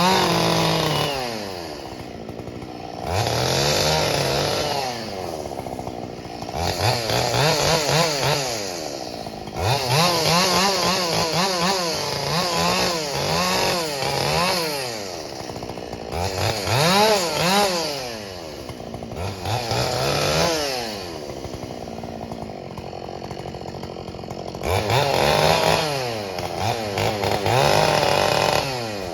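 Ported Husqvarna 572 XP two-stroke chainsaw revved to full throttle again and again in bursts of a few seconds, dropping back between them. During the longer bursts the pitch wavers, as the saw does when it is cutting wood.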